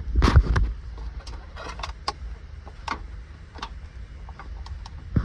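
Hand-handling noise from a tractor's plastic PTO switch and wiring connectors being worked loose: a louder scrape near the start, then scattered light clicks and taps.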